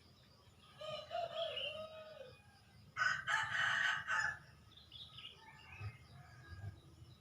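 Domestic rooster crowing once, loud and about a second long, roughly three seconds in, after a shorter, lower gliding call about a second in. Small birds chirp faintly throughout.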